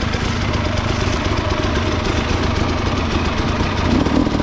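300cc two-stroke enduro motorcycle engine running at low, steady revs.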